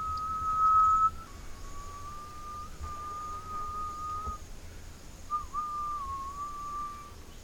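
Whistling in three long, held notes at nearly one pitch, the later two a little lower, with a short dip at the start of the third.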